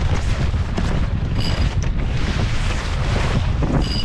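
Wind buffeting the microphone aboard a small sailboat under way, a steady low rumbling rush with water noise under it. Two brief high chirps cut through, one about a second and a half in and one near the end.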